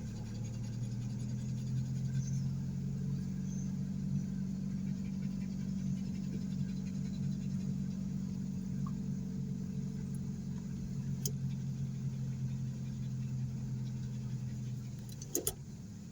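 Steady low engine drone, like a vehicle running, with a faint click partway through and a sharper double click near the end.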